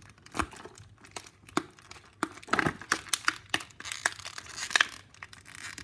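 Plastic packaging crinkling and rustling, with scattered small clicks and knocks, as a diecast model airplane's tail piece is pulled free of its packaging.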